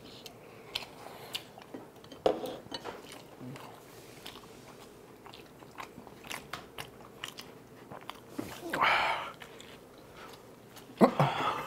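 Close-miked chewing and eating sounds: wet mouth clicks and soft crunches as two people eat spicy tteokbokki with chopsticks. A louder sound lasting under a second comes about nine seconds in, and a voice starts near the end.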